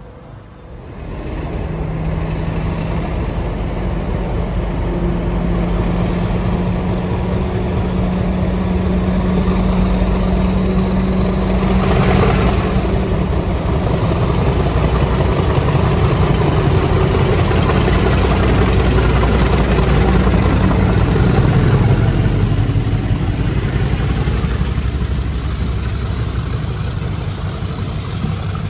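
Train with a heavy engine running passing at speed. The sound comes in suddenly about a second in and builds to its loudest as the train goes by about twelve seconds in. It then carries on steadily as the rest of the train runs past, with a thin high whine that slowly rises.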